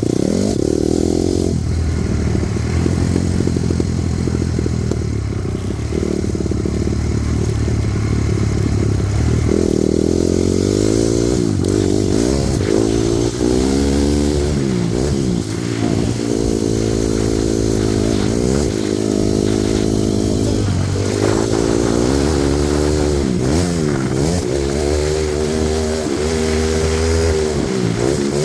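Honda CRF250R motocross bike's single-cylinder four-stroke engine being ridden hard. It runs fairly steady at first, then revs up and drops back again and again, its pitch climbing and falling through the gears.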